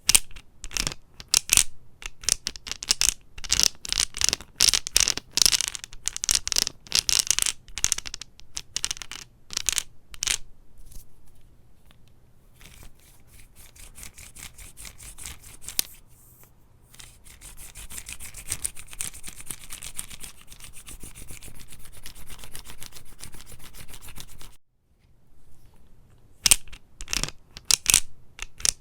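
Close-miked crisp crackling and crunching, with sharp irregular snaps at first, then a fast, steady crackle that cuts off suddenly, and a few more snaps near the end.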